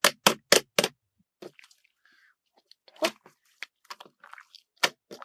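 Large slime being squeezed and pressed by hand, giving sharp popping clicks: four quick ones in the first second, then scattered softer clicks with a couple of louder pops later on.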